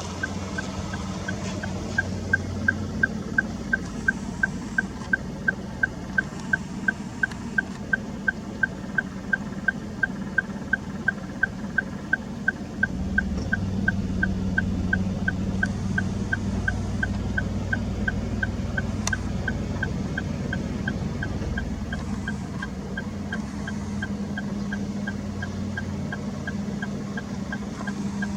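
A car's turn indicator ticking evenly, about two and a half times a second, over the low steady hum of the idling engine; the hum grows louder about halfway through.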